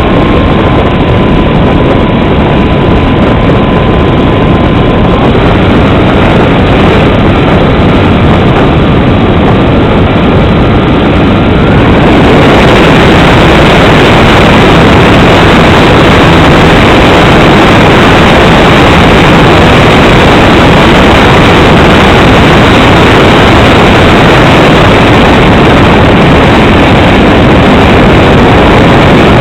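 Cessna 310 during landing: a loud, steady engine and rushing-air roar with a faint thin tone that steps up in pitch about five seconds in. The tone rises again near twelve seconds, after which the roar becomes brighter and slightly louder.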